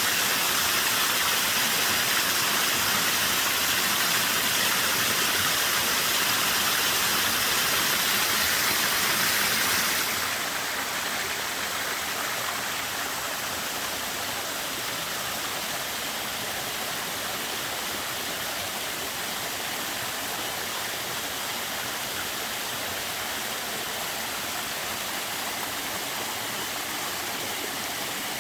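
A small waterfall with a fairly light flow, water falling and splashing in a steady rush. About a third of the way in, the rush drops a little in loudness and turns less bright.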